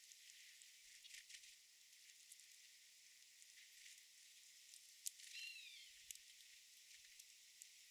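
Faint, steady high hiss of outdoor garden ambience, with a few soft clicks and one short, downward-gliding bird call a little past five seconds in.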